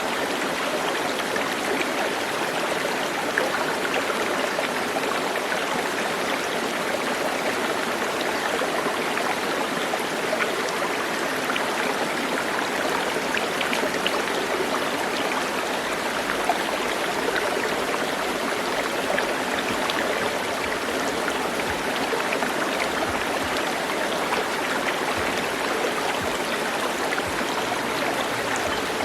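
Flowing water of a stream, a steady rush.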